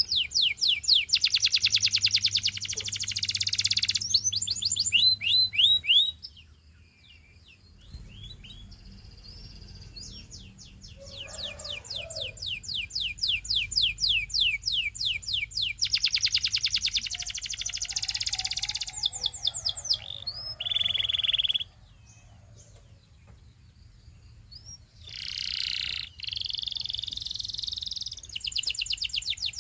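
Domestic canary singing long, rapid trills of fast repeated high notes, switching between different trill types, with two brief pauses.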